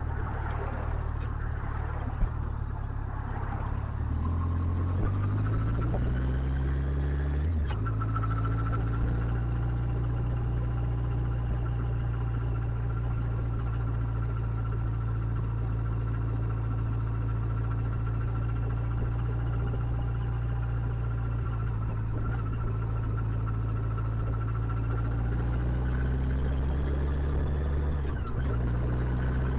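Motorcycle engine pulling away under acceleration, its note rising and then dropping sharply at a gear change about seven seconds in. It then runs at a steady cruise, rises again near the end, and drops at another gear change.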